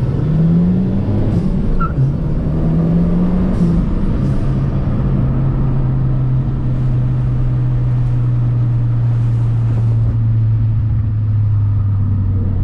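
Gen 2 Mazdaspeed3's turbocharged 2.3-litre four-cylinder running through a Borla catback exhaust. It accelerates in two rising pulls, with a gear change between, over the first four seconds, then settles into a steady drone while cruising.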